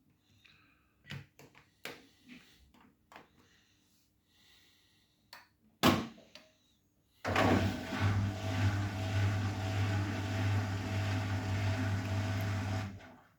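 Arçelik 9120M washing machine being set going: a few light clicks and knocks, a sharp thud about six seconds in, then a loud steady low hum with a rush of water, typical of the inlet valve opening to fill the drum, which cuts off suddenly about a second before the end.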